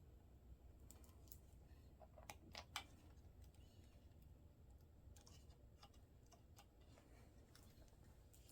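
Faint scattered clicks and light taps of small laptop parts being handled during disassembly, a few louder ones about two to three seconds in, over a low steady hum.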